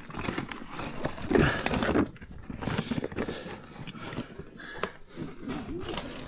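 Irregular scuffing, scraping and knocking of a person's body and gear against rock while crawling through a tight passage, with a louder stretch of scraping between about one and two seconds in.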